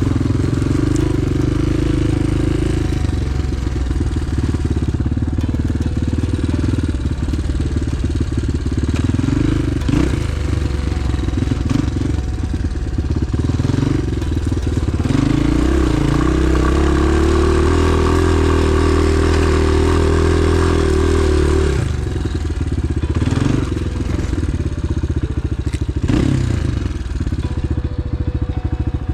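Enduro pit bike engine running under the rider's throttle, its revs rising and falling. About halfway through the revs climb and hold high for several seconds, then drop back. Occasional knocks come from the bike over rough ground.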